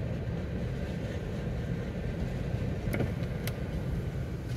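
Steady low rumble of a freight train of covered hopper cars rolling past a level crossing, heard muffled from inside a stopped car. Two short clicks come about three seconds in.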